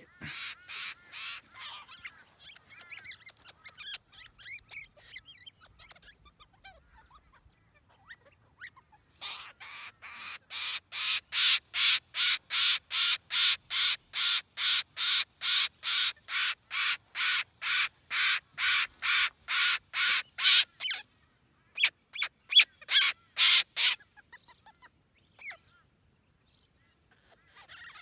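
Major Mitchell's cockatoo screaming over and over in what the owner calls a boredom tantrum: a long run of evenly spaced calls, about three a second, lasting some ten seconds, then a few louder ones after a short break. A quicker run of fainter calls comes at the start.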